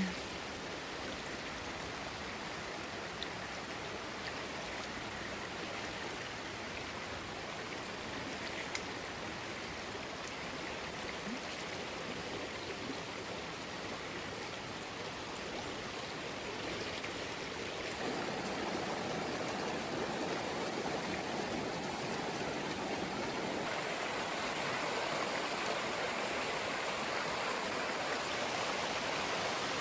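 River water flowing, a steady rush of water; it grows louder about eighteen seconds in.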